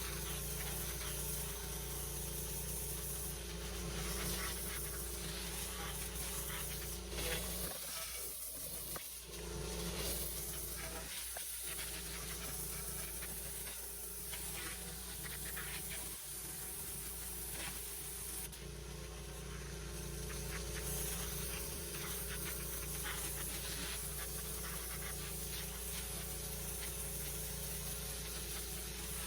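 Petrol pressure washer running steadily, its engine humming under the even hiss of the high-pressure water spray.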